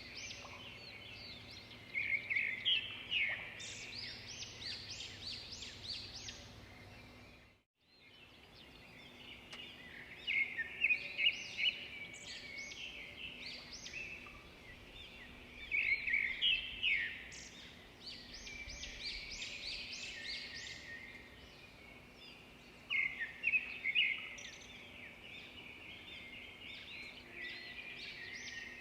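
Birdsong: several small birds chirping and warbling in bursts every few seconds over a faint steady background, with a brief total dropout about eight seconds in.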